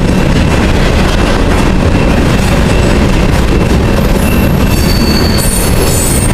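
Freight train passing close by: a loud, steady rumble of wheels on rail. From about four seconds in, high-pitched wheel squeal rises over it.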